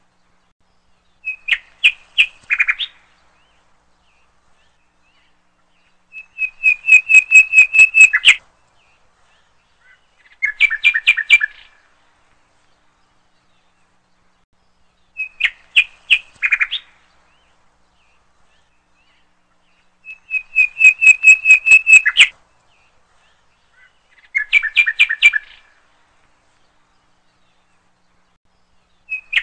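Birdsong: short chirping phrases of quick repeated high notes with silent gaps between them. The same set of three phrases comes round twice, a looped background recording.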